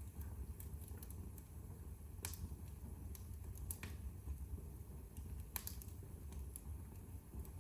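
Wood fire burning in a fireplace: a low steady rumble with scattered sharp crackles and pops, the loudest about two seconds in and again past halfway.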